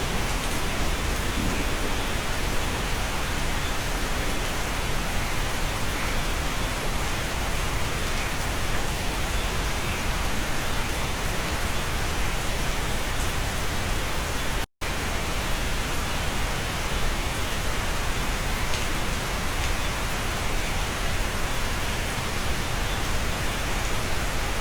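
Steady rain heard from inside a cabin: an even, unbroken hiss with low rumble beneath. The sound drops out completely for an instant about fifteen seconds in.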